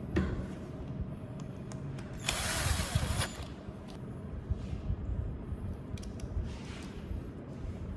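A small power tool runs in one short burst of about a second, a little over two seconds in, amid light clicks of parts being handled.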